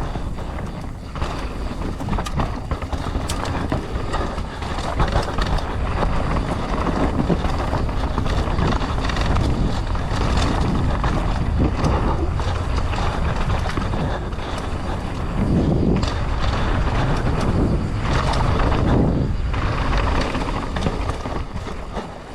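Mountain bike descending a rough trail at race speed: steady rush of wind and tyres over dirt and rock, with the chain and frame rattling and frequent knocks from bumps.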